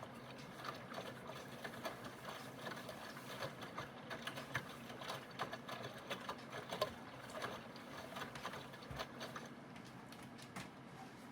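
Aidoo 1 kg mini washing machine running its wash: a steady motor hum with many irregular clicks and knocks over it.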